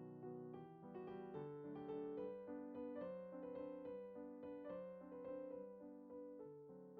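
Soft background piano music, a gentle melody of evenly paced notes.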